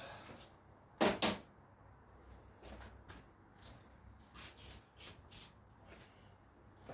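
Two sharp clicks about a second in, then faint scattered taps and clicks: a freshly unfastened part being unclipped and handled on the motorcycle.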